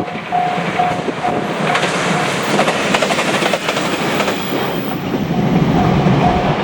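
A train passing over a level crossing, its wheels clattering over the rail joints. The crossing's warning bell dings steadily about twice a second, drowned out for a few seconds as the train goes by.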